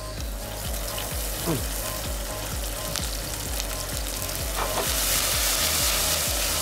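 Chopped shallots and garlic sizzling in hot oil in a pan as they are sautéed, the sizzle growing louder about four and a half seconds in. A low beat pulses underneath about twice a second.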